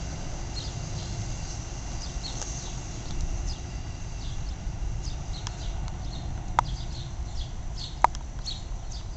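Small birds chirping repeatedly over a steady low rumble, with two sharp clicks near the end.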